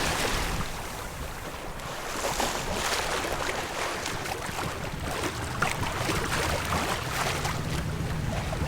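Sailboat under way: water rushing along the hull and wind buffeting the microphone, with scattered small knocks and clicks.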